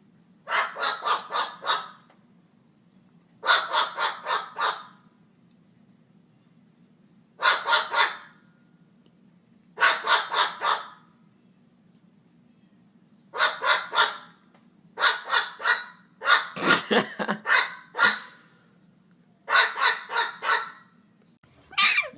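A bird calling in about eight bursts of four or five quick calls each, a few seconds apart, over a steady low hum.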